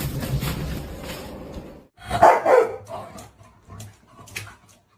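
A dog barking, the loudest bark a little over two seconds in, followed by a few fainter sounds.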